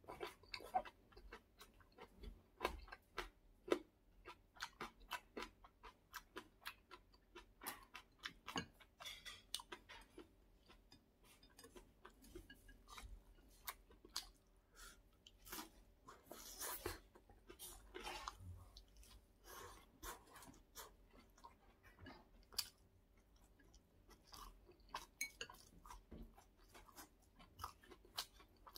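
A person chewing and eating close to the microphone, with crisp crunching from bites of a fried hash brown patty and many small, irregular mouth clicks and smacks.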